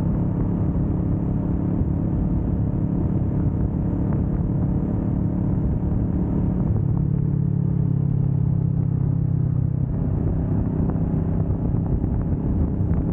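Kawasaki Vulcan S 650 parallel-twin motorcycle engine running steadily at highway speed. Its note drops to a lower pitch about seven seconds in and rises again about three seconds later.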